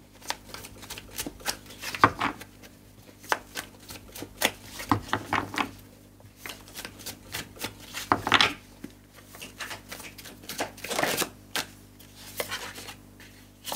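A tarot deck being shuffled by hand: irregular light card clicks and slaps, with longer sliding swishes about eight and eleven seconds in.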